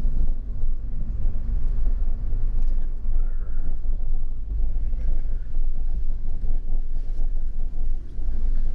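Car driving slowly along a dirt road: a steady, loud low rumble of tyres on gravel and the engine.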